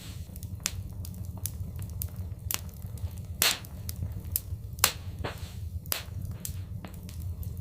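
Wood fire in a fireplace crackling: irregular sharp crackles over a steady low rumble, with two louder pops midway.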